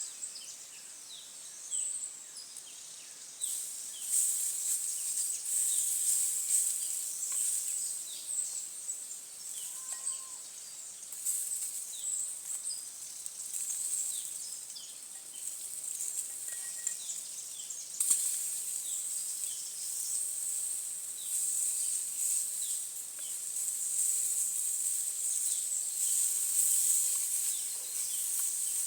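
Forest ambience: insects buzzing in a high, steady chorus that swells and fades, with many short high chirps throughout.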